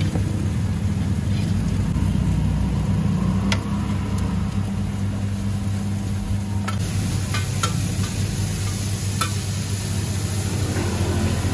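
Seafood omelette frying on a hot pan: a steady sizzle over a low rumble, with the hiss growing brighter about two-thirds of the way in. A few sharp clinks of metal spatulas against the plate and pan.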